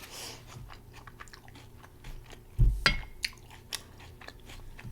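Close-miked chewing of a plant-based Impossible burger: soft, wet mouth clicks and smacks, with one louder low thump a little over halfway through.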